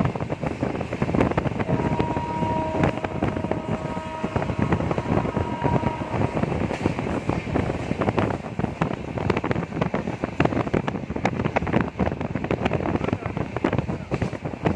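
Passenger train running at speed, heard from aboard: wheels clattering rapidly over the rails with rushing wind noise. A steady two-note tone is held for about two and a half seconds, starting about two seconds in.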